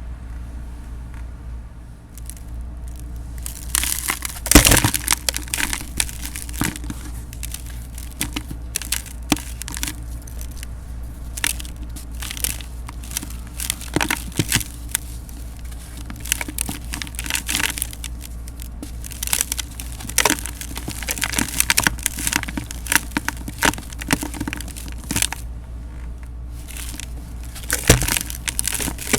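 Dried cement, mixed with a little baking soda, crunching and crumbling in a pot, in irregular crackling crunches that start a few seconds in. A steady low hum runs underneath.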